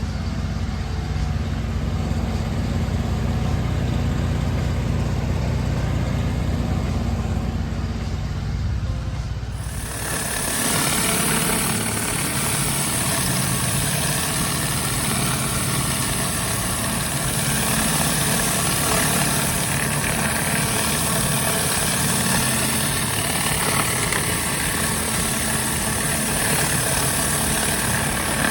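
Pressure washer rig's engine running steadily; about ten seconds in, the high-pressure water spray starts, a dense hiss over the engine.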